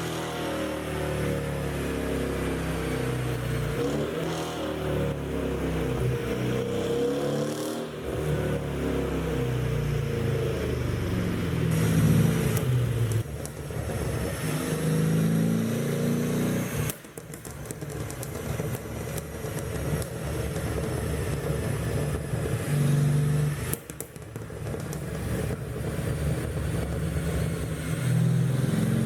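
Mercedes-AMG CLS63's twin-turbo V8 revving up and down through its exhaust. As the revs drop, sharp pops and crackles come from the tailpipes, the overrun burble of a pop-and-crackle engine tune.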